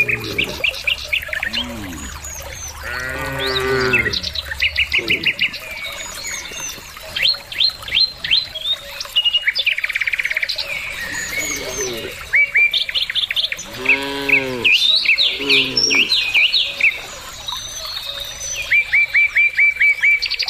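Cattle mooing several times, in a cluster in the first five seconds and again from about twelve to sixteen seconds in. Small birds chirp busily throughout, with a quick, evenly spaced run of chirps near the end.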